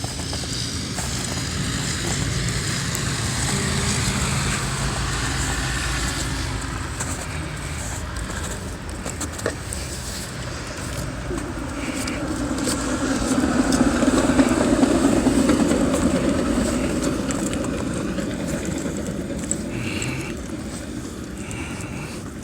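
Cars driving past one after another, engine rumble and tyre noise swelling and fading, with the loudest pass about two-thirds of the way through.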